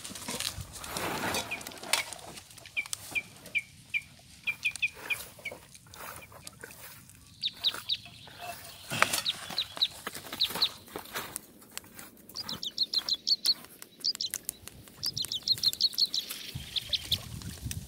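Birds chirping, short high calls, some coming in quick runs of several a second, mixed with scattered clicks and rustles from handling.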